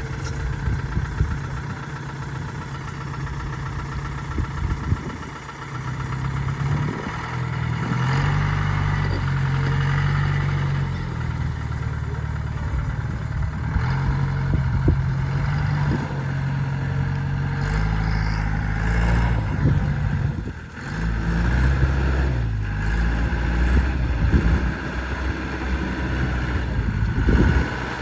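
Off-road vehicle's engine running under load, its pitch rising and falling again and again as it is revved and eased off, with scattered knocks and clunks.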